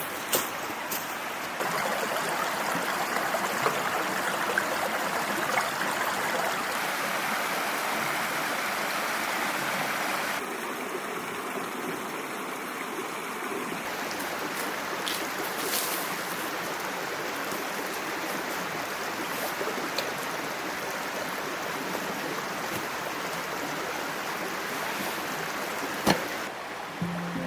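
Small mountain stream babbling steadily over rocks, a little quieter from about ten seconds in, with a few light clicks and a sharp tap near the end.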